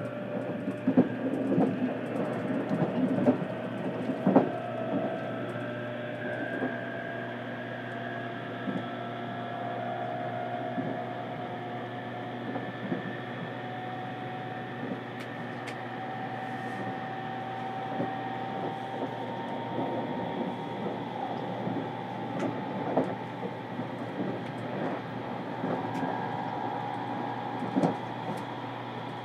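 Cabin running sound of a JR Kyushu 787 series express train, heard in its motored green car. The motor whine climbs slowly and steadily in pitch as the train picks up speed. Knocks from the wheels over rail joints are most frequent in the first few seconds.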